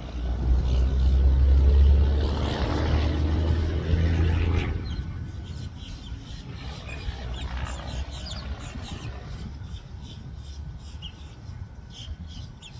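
A loud low rumble swells and fades away over the first five seconds, then small birds chirp.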